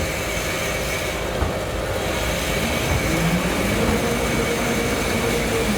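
Automatic pull-out tissue folding machine running, a steady dense mechanical clatter.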